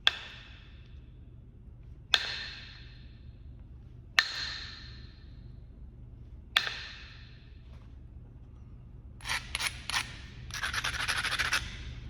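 Kentucky hornstone being knapped: four sharp percussion strikes about two seconds apart, each leaving a brief ringing tone from the stone. Near the end come a few quick clicks and about a second of scraping, as when the edge is abraded.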